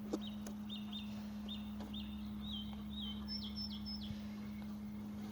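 A small bird chirping: a run of about a dozen short, quick chirps, shifting to higher, sharper notes about three seconds in. A steady low hum runs underneath.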